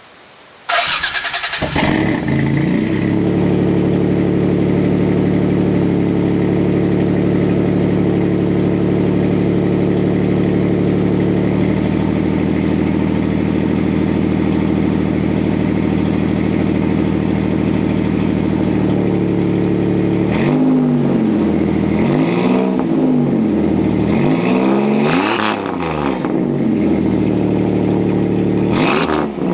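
1992 Toyota pickup's 3.0-litre V6 breathing through a full 3-inch exhaust with a single-chamber Flowmaster muffler, cold-started: it catches about a second in and settles into a high cold fast idle that steps down twice. In the last ten seconds it is blipped several times, the exhaust note rising and falling with each rev.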